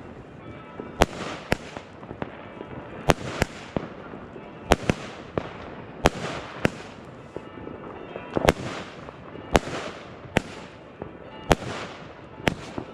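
Firework battery (cake) firing shot after shot: about a dozen sharp bangs, often in pairs about half a second apart, each trailed by a brief hiss.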